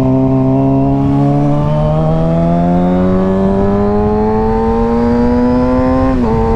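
Motorcycle engine pulling steadily under acceleration, its pitch rising slowly through a gear, then dipping briefly as the rider shifts up near the end. Heard through a helmet microphone with low rumble from wind and road.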